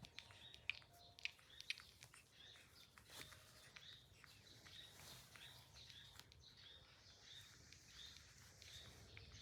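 Faint, high chirps repeating about twice a second, like a small bird calling, with a few soft clicks in the first two seconds.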